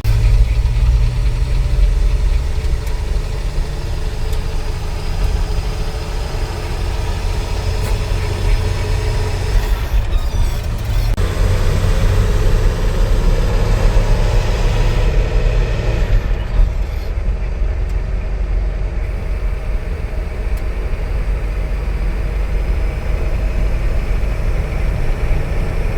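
Ford F100 pickup truck driving, its engine and road noise heard from inside the cab as a steady, continuous rumble.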